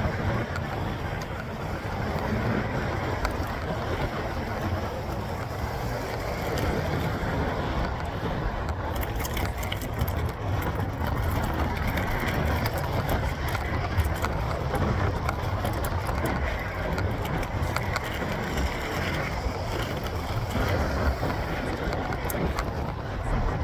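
Steady wind rush on the microphone and tyre rumble from a Jamis Dakar mountain bike ridden on pavement, with scattered small clicks and rattles through the middle.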